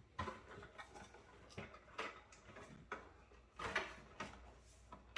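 Scattered light clicks and knocks, about half a dozen, the loudest a little before four seconds in: a desktop PC's power supply and its cables being handled and unplugged inside the case.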